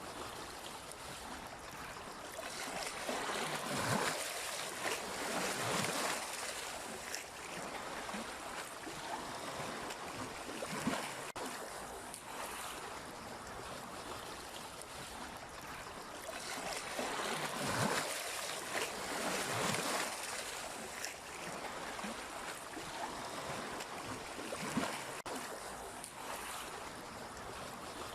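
Sea waves washing in and drawing back, the rush swelling and easing every few seconds.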